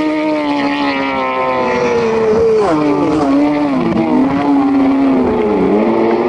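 Superbike racing motorcycle engine running loud at high revs. Its pitch sinks slowly, then drops and recovers in several quick dips through the second half, like a run of gear changes.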